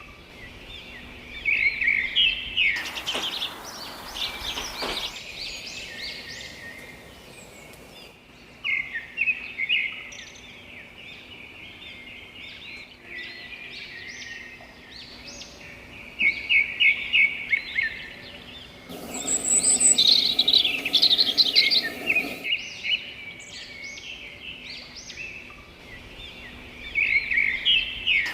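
Several songbirds chirping and singing, with quick runs of evenly repeated trilled notes. A louder hiss comes in twice for a few seconds, about three seconds in and again near twenty seconds.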